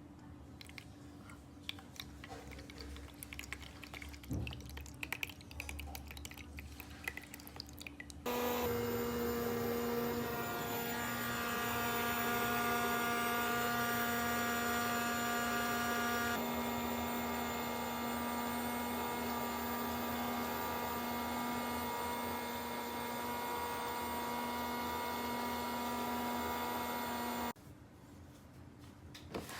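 Faint clicks and rustles of toys or packaging being handled. Then a loud, steady hum of several held tones starts suddenly about eight seconds in, shifts once partway through, and cuts off suddenly near the end.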